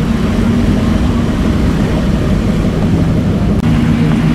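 Car engines running at low speed as lowered minivans roll slowly past, a steady low drone with a deep rumble underneath.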